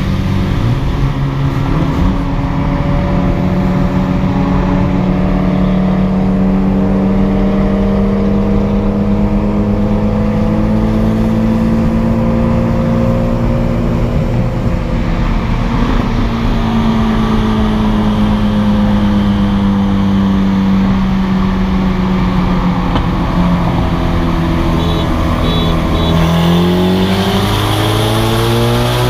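Car engine running loud at steady, fairly high revs, its pitch drifting slowly up and then down, then climbing quickly near the end as it accelerates.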